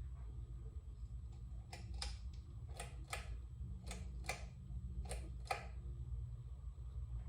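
Ceiling fan running with a low hum and a regular ticking: pairs of sharp clicks repeating about once a second, four times.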